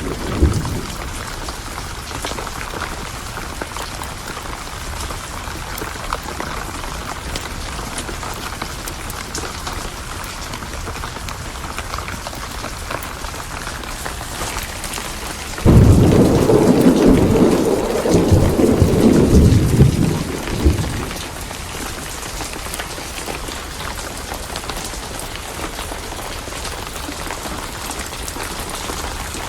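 Steady rain with a thunderclap about halfway through that starts suddenly and rumbles for about five seconds, the loudest thing heard. An earlier rumble of thunder dies away just at the start.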